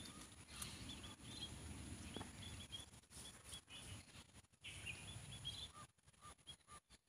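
Faint small-bird chirps, short and high, repeating in quick runs, over a soft low rustle in the first few seconds.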